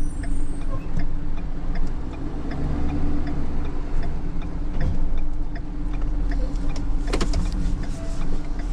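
Rollback tow truck's engine running steadily with a low rumble while the truck is maneuvered, with a sharp click about seven seconds in.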